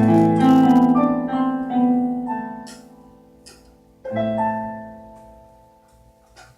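Piano playing a slow phrase of notes that fade away, then a single chord struck about four seconds in and left to ring out to near silence.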